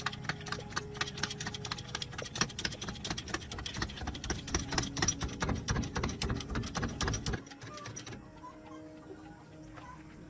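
Rapid, even mechanical clicking, many clicks a second, which stops abruptly about seven seconds in.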